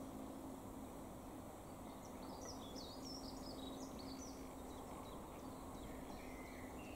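Faint outdoor ambience of steady background noise, with a small songbird twittering in quick high chirps from about two seconds in to around the middle. A faint steady low hum runs underneath.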